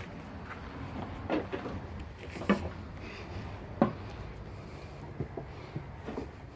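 Scattered knocks and thumps of someone moving about inside a fifth-wheel trailer, the loudest about two and a half and four seconds in.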